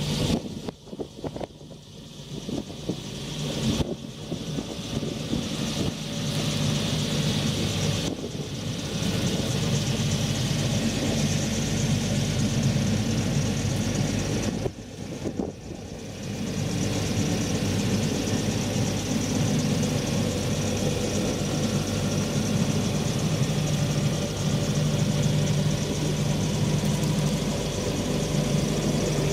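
Doosan G-60 diesel generator's John Deere 4045HF four-cylinder turbo diesel engine running at a steady speed, a constant low hum. The sound is fuller from about six seconds in and dips briefly about halfway through.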